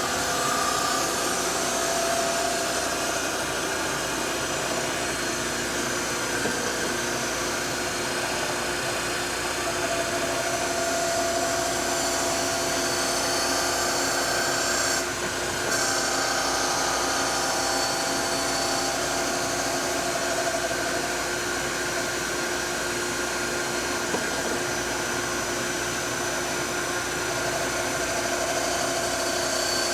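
Gallmeyer & Livingston No. 55 surface grinder running, its grinding wheel cutting across a workpiece: a steady high hiss over the motor's hum, with a short dip about halfway through.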